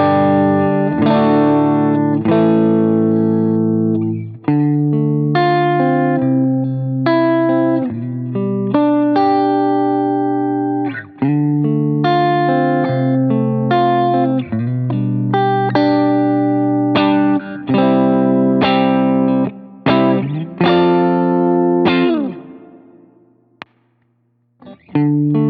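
Electric guitar, a Fender Stratocaster, playing a sequence of ringing chords through an analog delay pedal and amp modeller. It fades out about 22 seconds in, falls briefly silent, and starts again near the end.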